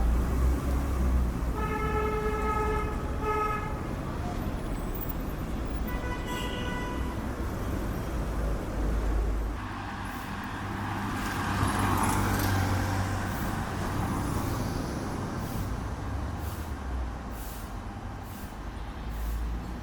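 Street traffic with engines running low throughout. A vehicle horn toots twice about two seconds in and once more, higher, about six seconds in. A broad rushing hiss swells between about ten and thirteen seconds.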